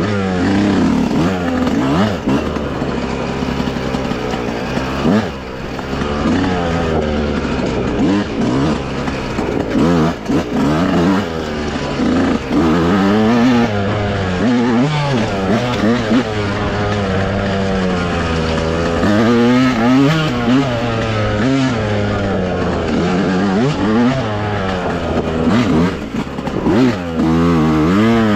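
Dirt bike engine running under load on a trail, its pitch rising and falling again and again as the throttle is opened and closed.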